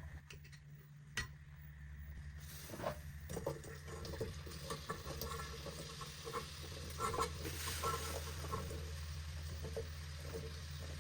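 Food being stirred in a cooking pot: irregular utensil clicks and scrapes with light sizzling, starting about two and a half seconds in, over a steady low hum.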